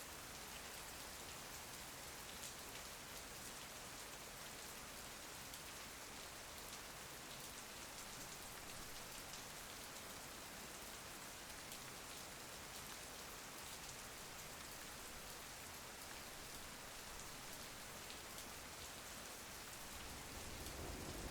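Steady rain falling, an even hiss with many fine drop ticks. A low rumble swells in near the end.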